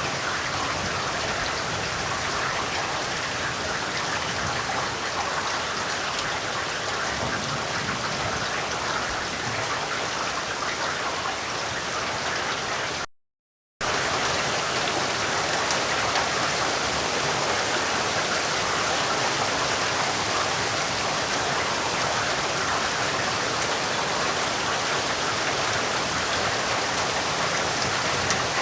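Steady rain, an even hiss of many drops falling. About halfway through it cuts out to silence for under a second, then carries on unchanged.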